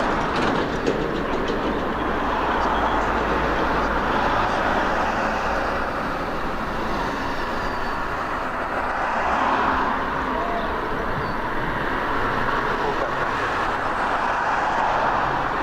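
Aircraft engine run up to high power, giving a loud, steady rushing noise that swells slightly about two-thirds of the way through.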